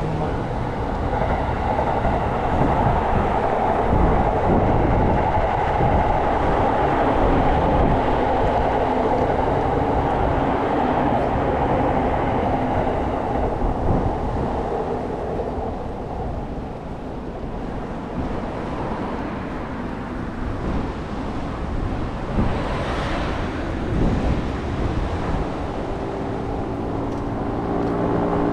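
Steady rumble of passing vehicles, with wind buffeting the microphone. Near the end, a low, even engine hum sets in.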